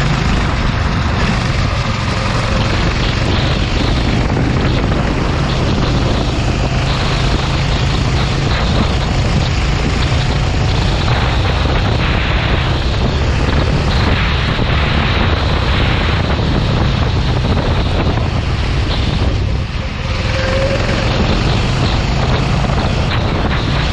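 Go-kart engine running steadily at speed, with wind buffeting the microphone; the loudness dips briefly near the end.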